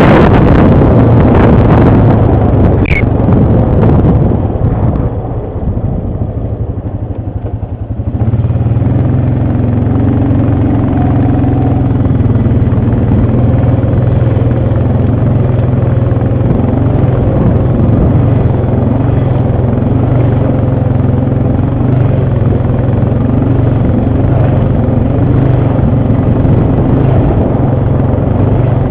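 ATV engine running. It is loud and rough for the first few seconds, dips briefly, then from about eight seconds on settles into a steady engine note.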